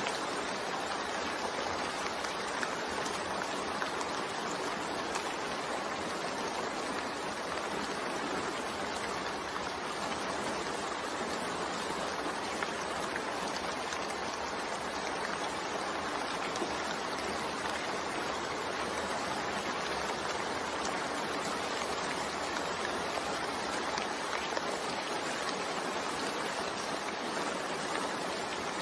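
Steady, even rainfall, the soft rain sound laid under the story as a sleep aid.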